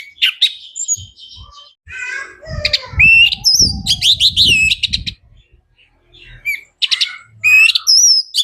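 Orange-headed thrush singing in full voice: bursts of varied whistled, gliding and chirping phrases with short gaps between them. A low rumble runs under the song for a couple of seconds in the middle.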